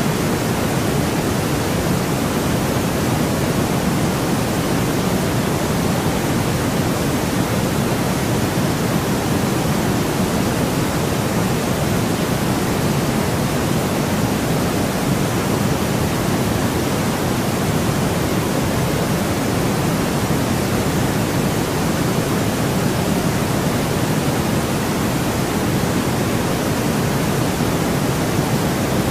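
Steady artificial white noise played as a sleep sound: an even, unbroken hiss that is fuller in the low range, without change.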